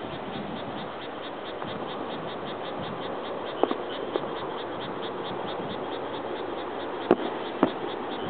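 Distant aerial firework shells bursting: four dull booms, a pair just past the middle and a louder pair near the end. Under them an insect chorus pulses steadily, about four pulses a second.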